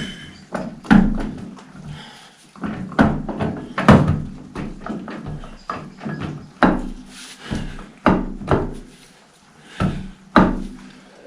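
Heavy metal tractor part being worked into place on a 1955 Fordson Major's bull pinion: a series of irregular knocks and clunks, some in quick pairs.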